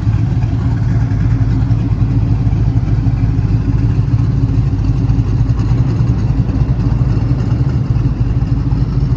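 Twin-turbocharged LS3 V8 idling steadily, a constant low hum with no revving.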